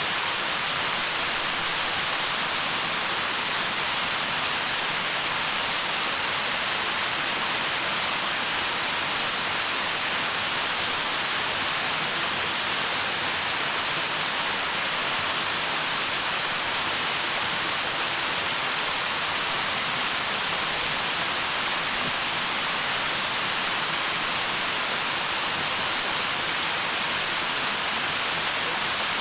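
Waterfall: a steady, even rush of falling water, a bright hiss with no breaks or changes.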